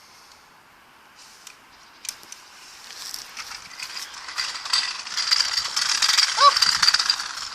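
Toy logging truck's plastic gears and wheels clattering and ratcheting as it moves. A few clicks at first, then a dense rapid rattle with a thin high whine that builds from about two seconds in and is loudest near the end, with a brief squeak just before it eases.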